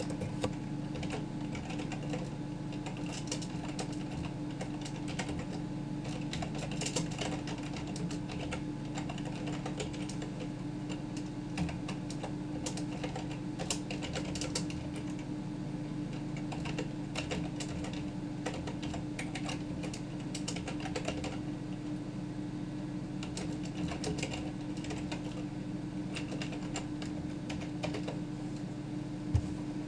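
Many quick, irregular clicks, like typing on a keyboard, over a steady low hum, with one louder click near the end.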